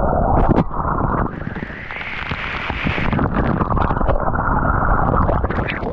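Rushing, splashing waterfall water close on the microphone, a dense muffled rush. About a second in it turns to a brighter hiss for a couple of seconds.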